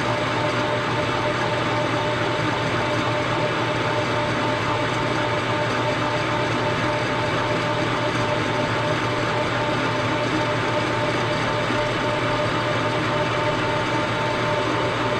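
Milling machine running steadily with a constant whine, taking a facing cut on the engine frame.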